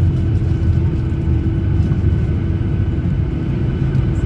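Cabin noise of a Boeing 737-800 on the ground just after landing: a steady low rumble from the wheels and engines, with a steady hum over it.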